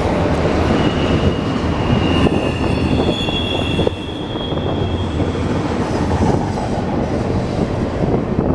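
A train rolling past at close range with a steady heavy rumble, its wheels squealing in thin high tones during the first half.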